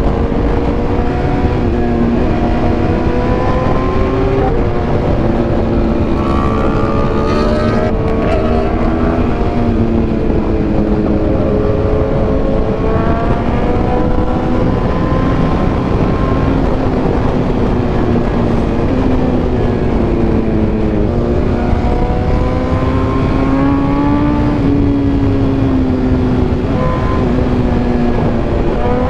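Superbike engine running at speed, its pitch rising and falling gently as the throttle changes, over a steady rush of wind noise.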